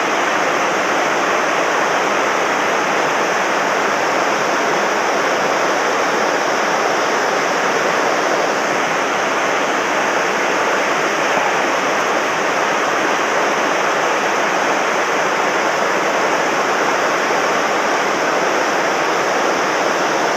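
Steady rush of a mountain stream running high and fast after heavy rain, an unbroken wash of water noise with no let-up.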